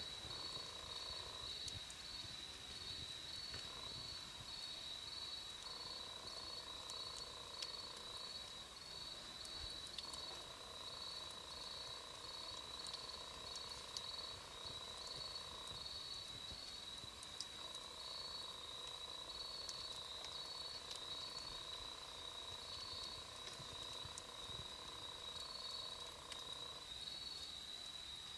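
Wood campfire crackling in sparse, scattered pops, over a steady high insect trill and a second chirp pulsing about twice a second. A lower drone starts and stops several times.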